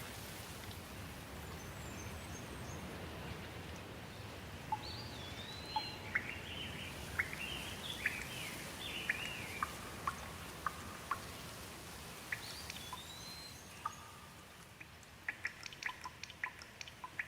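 Steady rain with birds calling through it: a run of quick chirping calls from about four seconds in, and another call near the middle. Near the end the rain thins and separate drops can be heard dripping.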